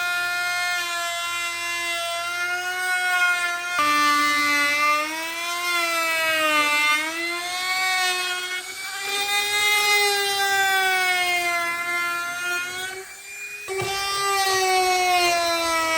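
Electric power tool motor running with a high whine whose pitch sags and recovers as it is pressed into the work. It drops away briefly about thirteen seconds in and picks up again.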